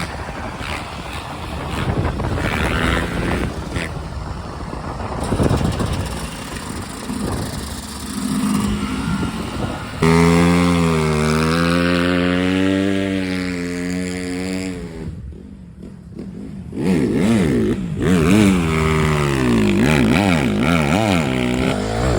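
Off-road dirt bike engines running and revving in several cut-together clips. About halfway through a steady engine note slowly falls in pitch; after a brief break the engine revs up and down repeatedly near the end.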